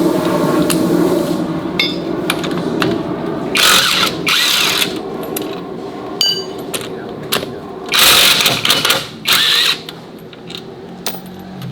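A hand-held power tool run in several short bursts of about a second each, with clicks and knocks of work between them.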